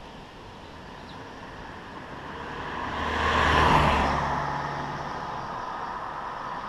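A motor vehicle passing by on the road: its engine and tyre noise grow louder to a peak a little past halfway, then fade away.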